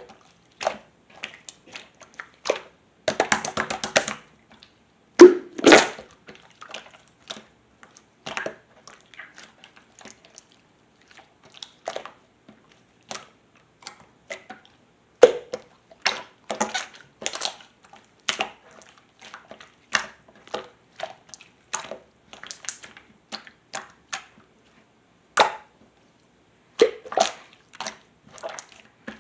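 Jelly-like 'water pudding' mixed slime being squeezed and pressed by hand, making irregular wet clicks and pops. A quick rattle of pops comes about three seconds in, and the loudest pops follow a couple of seconds later.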